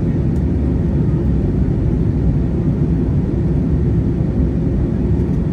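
Steady, even cabin noise inside an Airbus A321neo airliner in flight: a constant low rumble of airflow and engines.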